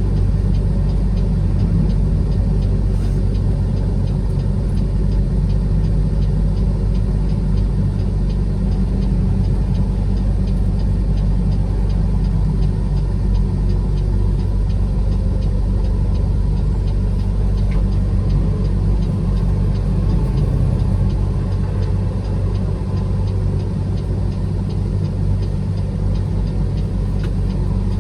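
A truck being driven: its engine gives a steady low drone, mixed with road noise, at an even level throughout.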